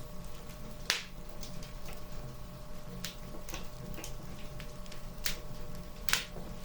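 Wood fire crackling, with irregular sharp pops, the loudest about a second in and near the end, over a low steady rumble.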